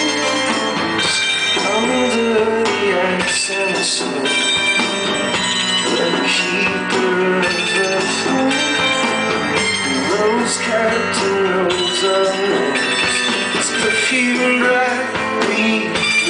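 Live indie-folk band playing an instrumental stretch of a song, the vocals resting, with repeated bright percussion hits over the pitched instruments.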